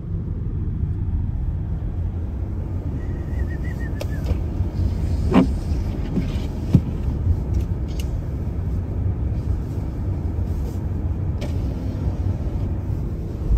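A car driving on a snowy road: a steady low rumble of engine and tyre noise, with a few faint ticks.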